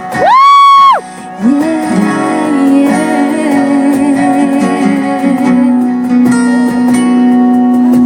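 Live acoustic guitar intro to a slow country song. A loud, high yell from someone near the microphone rises and falls at the start and lasts under a second.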